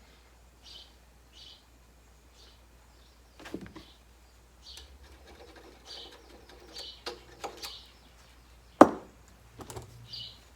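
Short high bird chirps repeating about once a second, with scattered clicks and knocks of parts being handled and one sharp click near the end, the loudest sound.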